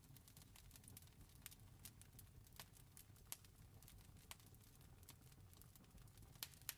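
Faint wood fire crackling, with irregular pops and two sharper pops near the end, over a low steady rumble.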